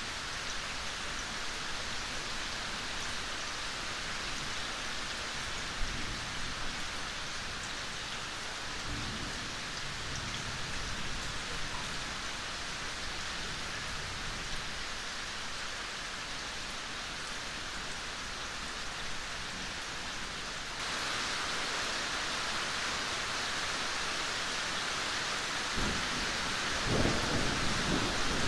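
Steady rain falling, an even hiss. About three-quarters of the way through it steps up abruptly to louder, heavier rain, and near the end low rumbles of thunder begin.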